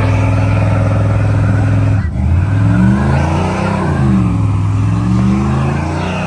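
Loud vehicle engine running at steady revs, then about two seconds in the pitch drops and swings up and down repeatedly as the engine is revved, with the pitches of more than one engine crossing each other.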